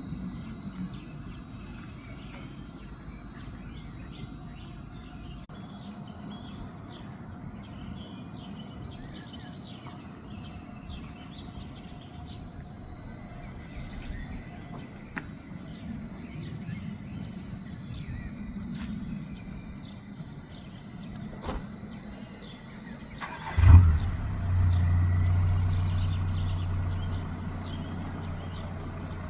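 Quiet outdoor ambience with a steady low rumble and a few birds chirping. About three-quarters of the way through, a sudden loud thump is followed by a strong steady low hum that slowly fades.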